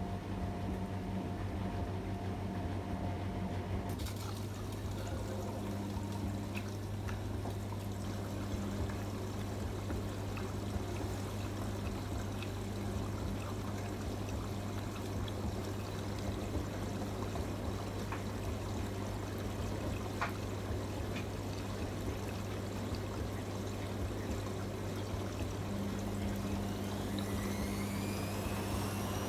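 AEG Öko-Lavamat front-loading washing machine running water through with a steady electric hum, the flow growing stronger about four seconds in. Near the end a rising whine sets in as the drum motor starts to speed up.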